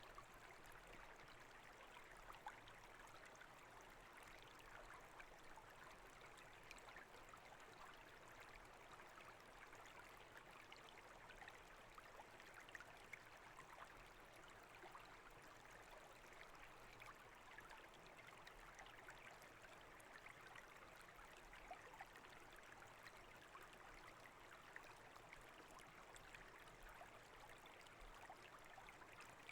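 A brook babbling: a faint, steady rush and trickle of flowing water.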